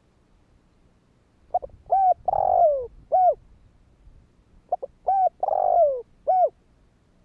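Spotted dove cooing: two phrases about three seconds apart, each a couple of short coos, a longer falling coo and a final short coo. It is a lure call of the kind used to draw in wild spotted doves.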